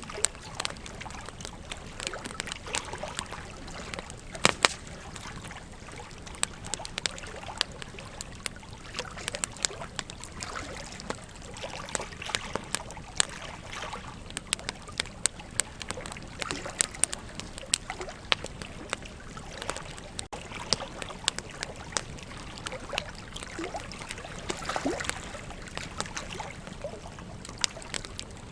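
Wood campfire crackling and popping with irregular sharp snaps, the loudest a little over four seconds in, over the steady rush of a flowing river.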